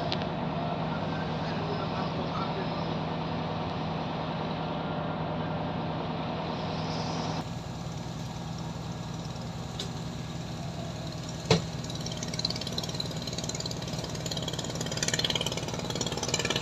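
Engine idling steadily, its hum under a haze of rain and wind noise, with one sharp knock about eleven and a half seconds in.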